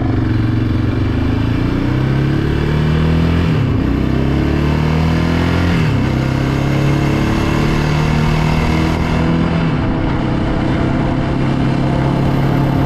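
Yamaha Raptor 700R ATV's single-cylinder four-stroke engine accelerating through the gears: the pitch climbs, then drops at an upshift about three and a half, six and ten seconds in, and afterwards holds steady at cruising speed.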